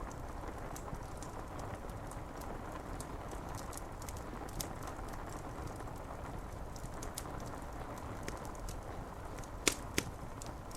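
Rain falling steadily on window glass, with a wood fire crackling in small scattered clicks and two sharper pops near the end.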